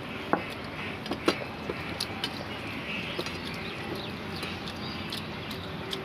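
Mutton curry and rice being eaten by hand: scattered sharp little clicks and smacks of chewing and fingers on the plate, several in the first three seconds, over steady room noise.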